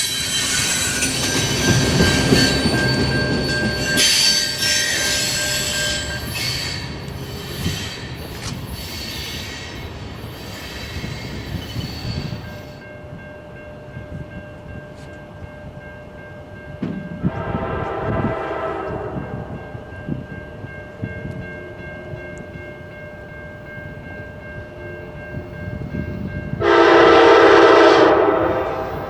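A train rolling past with wheel and rail noise that fades away, then a train horn sounding twice: a shorter, softer blast, and a louder one of about two seconds near the end.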